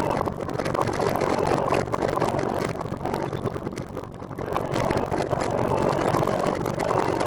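Steady wind and road rumble from riding a trike along a road, easing briefly about four seconds in and then building again.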